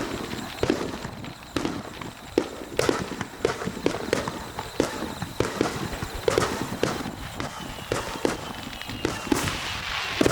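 Aerial fireworks popping in a rapid, irregular series of sharp bangs, several a second.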